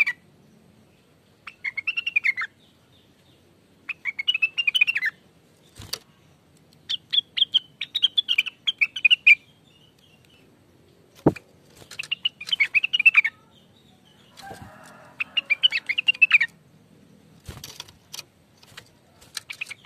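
Blue-winged leafbird (cucak wilis, also called rengganis) singing in short, fast chattering phrases of chirps, each about a second long and repeated every two to three seconds. A few sharp clicks fall between the phrases, one louder near the middle.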